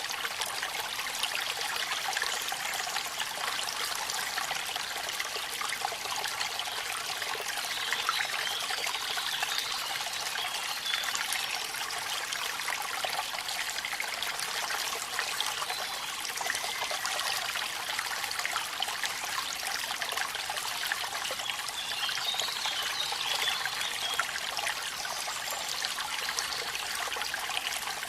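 Waterfall in rain: a steady, even rush and trickle of falling water, its sound lying mostly high with little low rumble.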